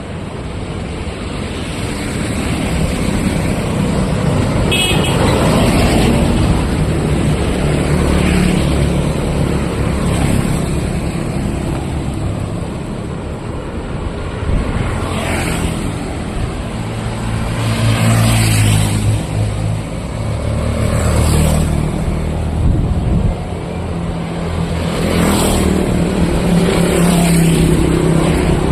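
Road traffic passing close by, one vehicle after another with engines running, and a short horn toot about five seconds in.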